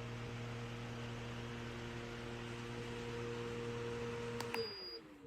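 Portable rechargeable fan running steadily with a motor hum and airy whoosh. Near the end there is a click, and the hum slides down in pitch as the fan is switched off and winds down.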